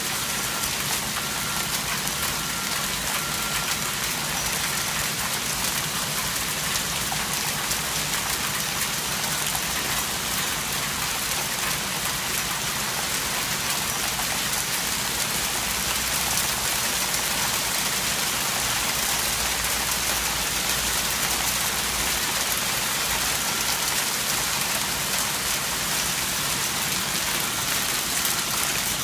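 Hail falling steadily, a dense even hiss of countless small impacts, growing slightly heavier about halfway through.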